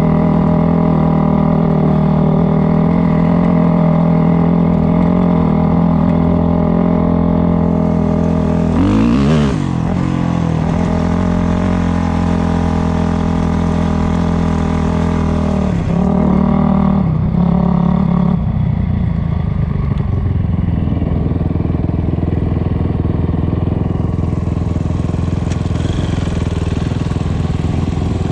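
Dirt bike engine running steadily under way. Its pitch dips and climbs again briefly about nine seconds in and twice more between about sixteen and eighteen seconds, then it holds a steady, slightly lower note.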